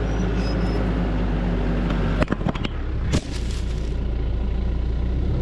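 Engine running steadily with a low, even hum, with a few sharp knocks about two and three seconds in.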